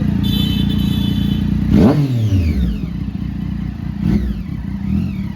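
Superbike engines running loud, revved sharply about two seconds in and again twice near the end, the pitch falling away after each rev.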